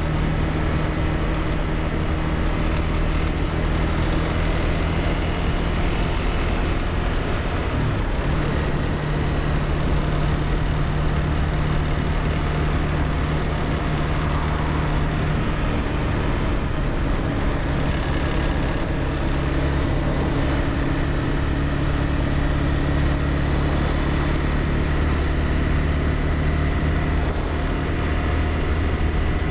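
Honda CBR300R's single-cylinder engine running steadily while riding, under a constant rush of wind and road noise. The engine note breaks briefly about eight seconds in and settles a little lower about halfway through.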